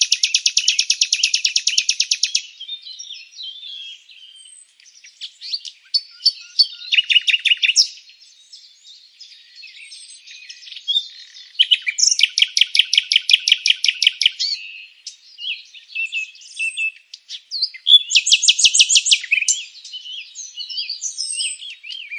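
Songbirds singing: fast trills of rapidly repeated notes at the start, about 12 seconds in and about 18 seconds in, with scattered chirps and short calls between them.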